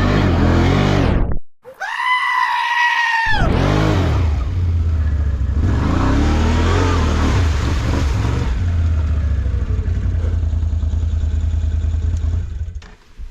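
An off-road vehicle's engine revving hard through a mud hole. About a second and a half in, the engine sound cuts off abruptly, and a high whine that rises and falls takes its place for a couple of seconds. The engine then runs on and fades away near the end.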